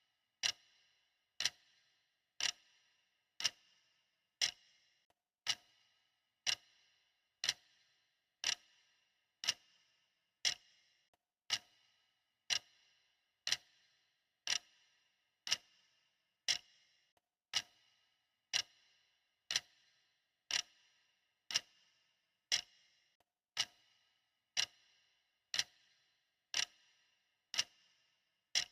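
Clock ticking steadily, one crisp tick each second.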